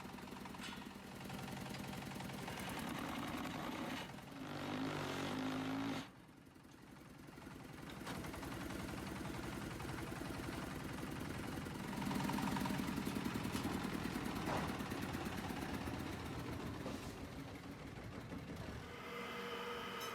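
Diesel engine powering a semi-automatic concrete block making machine, running steadily as the machine works. The sound drops sharply about six seconds in, then builds back up.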